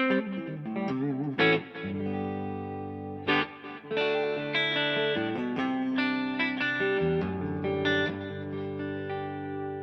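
Electric guitar played through a DVII guitar amplifier, with reverb and delay from pedals. Quick picked notes lead into chords struck about a second and a half in and again past three seconds, which ring out and overlap.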